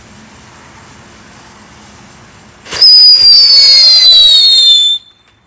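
A whistling firework lets out a loud, shrill whistle for about two seconds, sliding slightly down in pitch, starting near the middle and cutting off suddenly.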